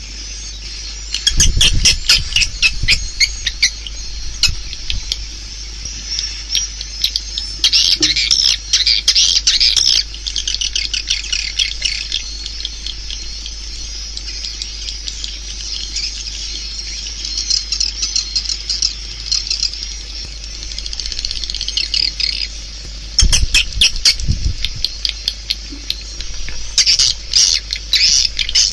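Edible-nest swiftlet calls: dense, rapid clicking twitters that swell and ebb in waves, a swiftlet lure sound of the kind played from tweeters to call birds into a swiftlet house. Two short bursts of low thumping come about a second and a half in and again about 23 seconds in.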